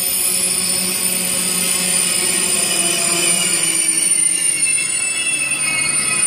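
A train moving along the platform with a high-pitched wheel squeal, several shrill tones held over a steady low rumble.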